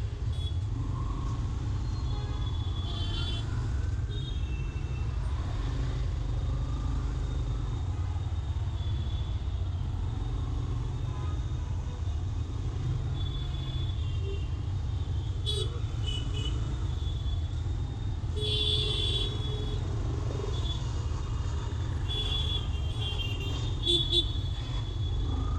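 Yamaha FZ-X motorcycle under way: a steady low rumble of engine and wind, with short horn toots from traffic about three-quarters of the way through and again near the end.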